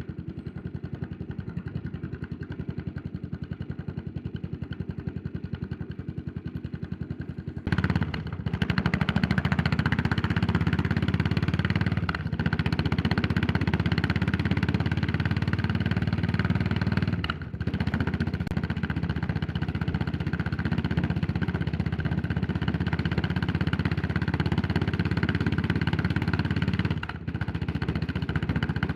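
Yamaha SR400's air-cooled single-cylinder four-stroke engine ticking over steadily, then pulling away under throttle about eight seconds in and running louder, with two short drops in the engine sound as the throttle is briefly closed, once midway and once near the end.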